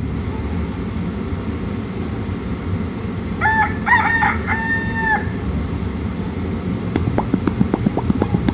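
A rooster crowing once, cock-a-doodle-doo in three parts with a long final note, over a steady low rumble. Near the end, a quick run of short sharp clicks starts, several a second.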